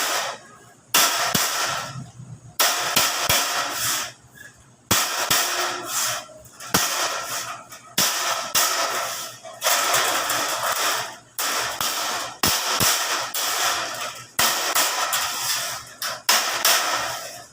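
Repeated blows on plain sheet metal being bent, about one every one to two seconds, each a sharp bang followed by a short metallic crash of the sheet.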